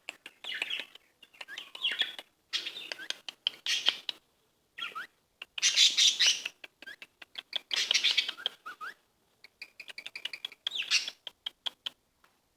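Pet parrot calling in a series of harsh, scratchy bursts, with a few short rising whistles and sharp clicks between them.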